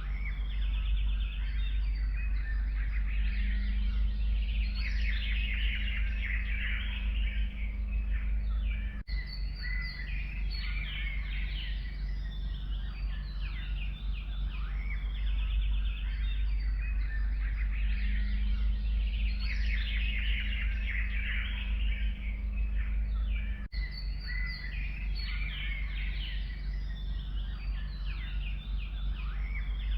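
Forest birds chirping and trilling, several overlapping songbird calls, over a steady low background rumble. The sound cuts out for an instant twice, about nine seconds in and again near 23 seconds.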